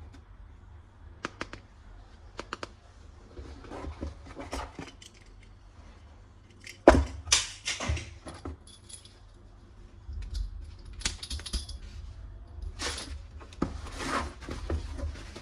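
Hard plastic toy parts clicking, knocking and clattering as they are handled. There are scattered clicks at first, a sharp knock about seven seconds in, and busier rattling in the second half.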